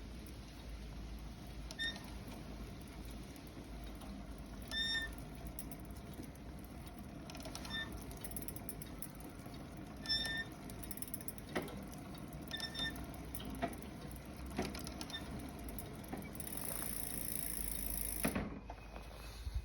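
Short, high squeaks from the cheap pedals of a Giant Explore E+ Pro 1 e-bike, repeating every few seconds over a steady low rumble of riding. The squeak comes from worn budget pedals.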